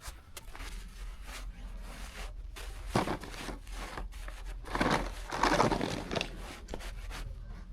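Snow being scooped and scraped up: crunching scrapes, loudest about three seconds in and again around five to six seconds.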